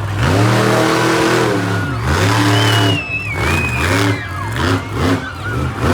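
Monster truck engine revving hard again and again: a long high rev for the first two seconds, then a series of shorter blips rising and falling.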